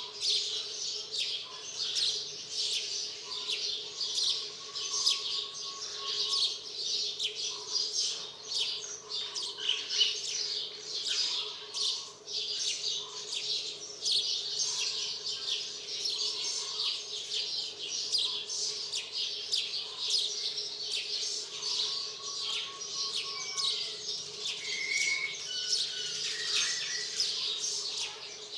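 Dense bird chirping: many quick, high chirps overlapping without pause, with a few longer whistled notes near the end, over a steady low hum.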